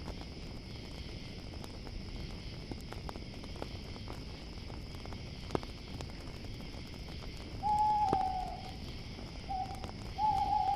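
An owl hooting: a long hoot about eight seconds in, a short one, then another long one near the end, each dropping slightly in pitch. Underneath, a campfire crackles and pops and crickets chirr steadily.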